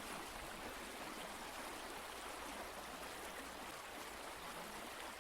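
Steady rushing of running water, like a brook.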